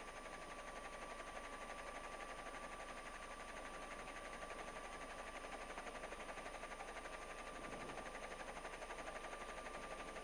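Faint steady hiss and electronic noise on the communications audio between radio transmissions, with a thin steady high tone running through it.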